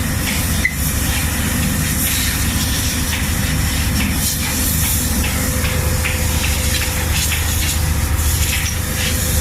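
Heavy machinery running steadily on the rail line: a loud low drone with a hiss over it, typical of an on-site rail welding machine's power unit running.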